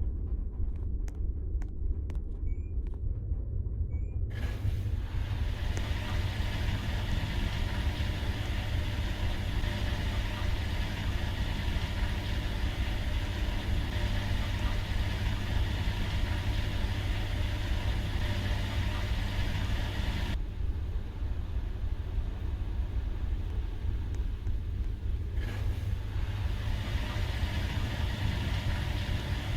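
Washing machine running with a steady low hum and rumble.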